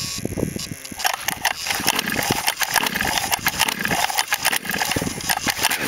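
Small engine fitted with a swapped-in 644 carburetor, cranked on choke and sputtering rough and uneven as it tries to catch, from about a second in. It is hard-starting: it fires, burns off its fuel and dies.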